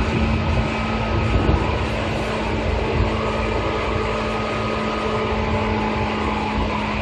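Seibu 2000 series electric multiple unit running at speed, recorded on board: a steady rumble of wheels on the rails with a constant low hum from the train's equipment.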